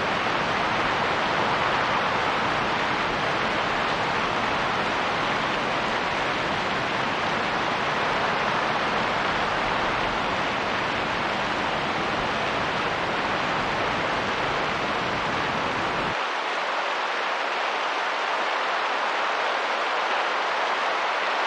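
Steady rain and wind, an even hiss. About 16 seconds in, the deep rumble underneath and the very top of the hiss cut out abruptly.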